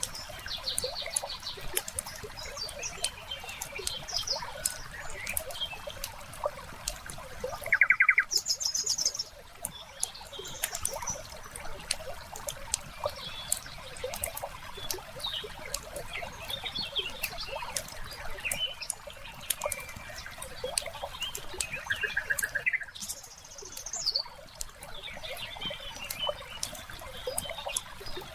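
Fireplace crackling with frequent sharp pops over a steady trickle of water. A few short bird trills cut in, the loudest about eight seconds in and another about twenty-two seconds in.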